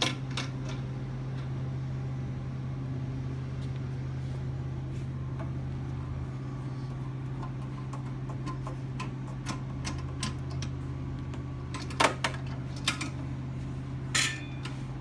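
Steady low hum of a running machine, with a few sharp clicks and knocks about twelve seconds in and again near the end.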